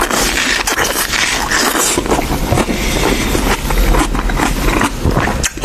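Wet eating noises from someone working through a sheep's head: chewing, lip-smacking and slurping, heard as a dense, irregular run of clicks and smacks.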